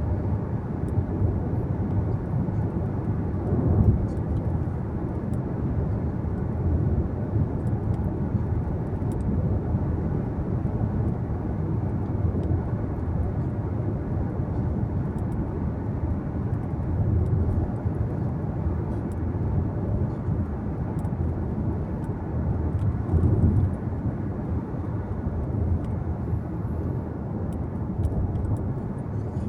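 Steady road noise inside a moving car's cabin: a low rumble of tyres and engine that rises and falls a little.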